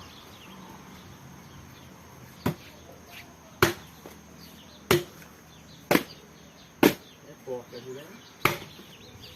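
Axe chopping firewood: six sharp blows, roughly a second apart.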